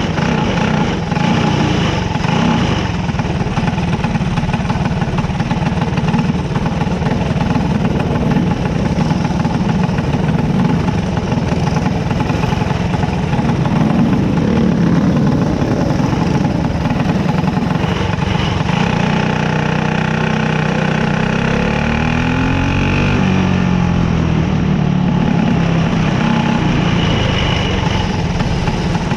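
Small racing car's engine heard from on board, running at low speed as the car rolls around a dirt track. About two-thirds of the way through, its pitch drops and then climbs again as the car slows and picks up.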